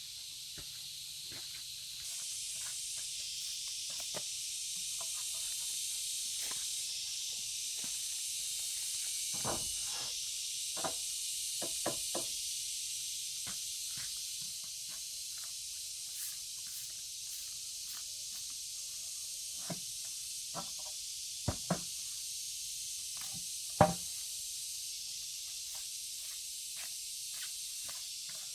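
A steady high-pitched hiss with scattered knocks and clicks through it; the loudest knock comes near the end.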